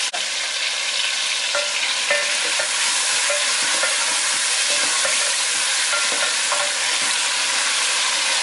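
Raw chicken pieces frying and sizzling in oil with onions in a metal pot, stirred with a spatula that scrapes against the pot now and then.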